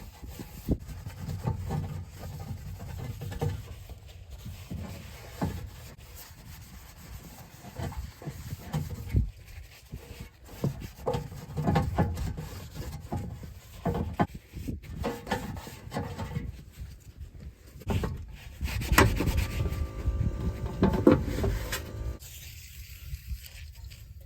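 Irregular rubbing and scrubbing strokes as an automatic transmission oil pan is cleaned by hand.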